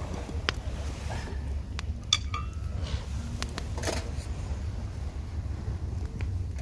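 A few light metallic clinks, one ringing briefly about two seconds in, over a steady low rumble.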